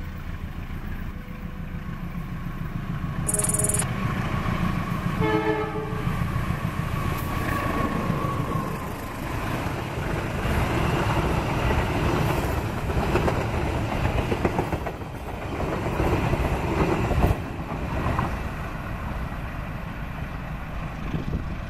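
Passenger train hauled by a diesel locomotive passing close by. The locomotive's horn gives two short blasts a few seconds in, followed by the steady rumble and wheel clatter of the coaches going by.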